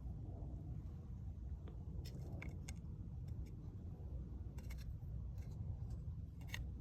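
Wood fire crackling: scattered sharp pops and clicks over a steady low rumble.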